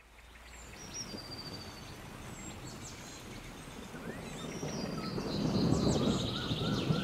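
Birds chirping and twittering over a rushing background noise. The sound fades in from silence and grows louder about five seconds in.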